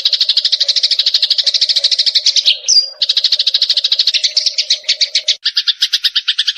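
Eurasian tree sparrows chattering: a fast, dense stream of short chirps, many to the second. A brief whistled note and a short break come a little under three seconds in, and about five and a half seconds in the chirping switches to a different, lower-reaching pattern.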